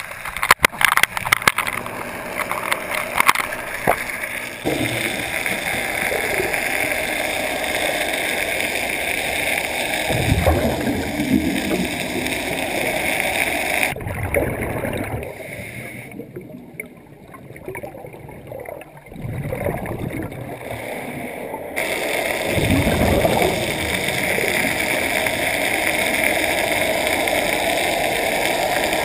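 Water churning and gurgling as heard from a camera underwater beside the LP Stingray in-situ net washer scrubbing mussels and growth off a fish-pen net. It turns quieter for several seconds in the middle, then comes back.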